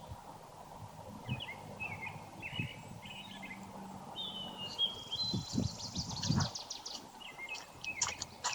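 Small songbirds chirping and trilling, with a fast trilled phrase about five seconds in, over a steady low outdoor noise broken by a few short low thumps.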